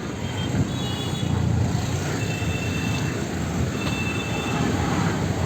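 Busy street traffic: a steady low rumble of vehicles, with three brief high-pitched squeals over it.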